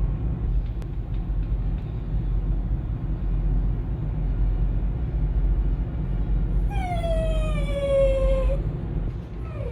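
Steady low rumble of a ferry's engines, with one long whine that falls in pitch, lasting almost two seconds about seven seconds in, from a dog; a short second call begins near the end.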